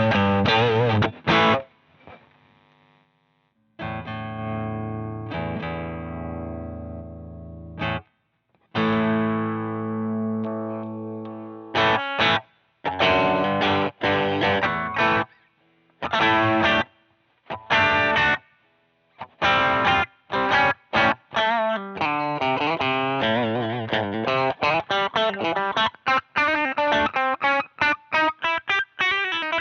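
Electric guitar played through a high-gain overdrive pedal, the Jeds Peds Onosecond: a few short distorted chords, then two chords left to ring out and fade, then tight stop-start riffs with brief gaps between phrases.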